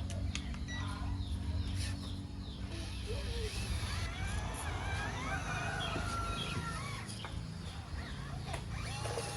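Chickens clucking and birds calling, with short gliding calls clustered in the middle, over a steady low hum.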